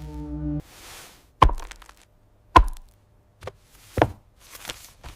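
A humming drone cuts off suddenly. Then come three loud, sharp impacts about a second apart, with a few fainter knocks between and after them.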